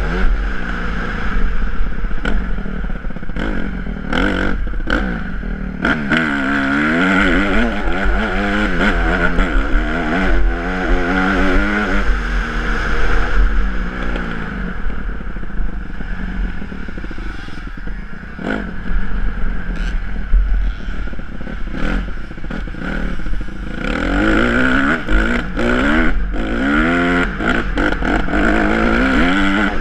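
Honda CRF150R's single-cylinder four-stroke engine revving up and down again and again as it is ridden through the gears, easing off for a stretch in the middle. Wind buffets the camera's microphone, and short knocks and rattles come from the bike.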